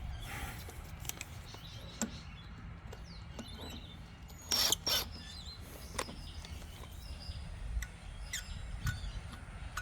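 Birds chirping faintly in the background, with a few scattered clicks. Near the middle come two short, sharp clinks a moment apart, the loudest sounds here.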